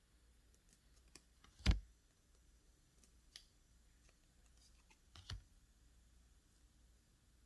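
Faint handling of letter cards being shown one after another: scattered small clicks and ticks, with two louder short taps, one just under two seconds in and one a little after five seconds.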